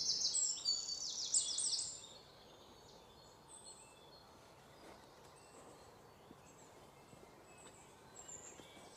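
A bird singing close by: a quick run of high, rapidly repeated notes for about two seconds, then only faint, distant chirps.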